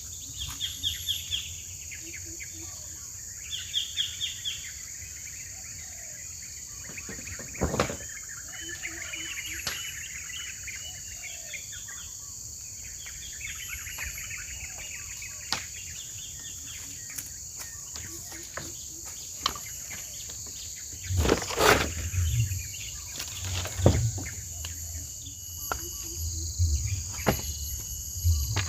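Steady insect drone with birds calling in repeated chirping trills, mostly in the first half. Scattered knocks and thumps break in, the loudest cluster about two-thirds of the way through.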